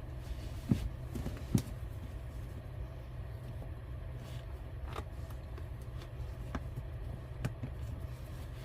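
A steady low rumble with a few scattered knocks and clicks.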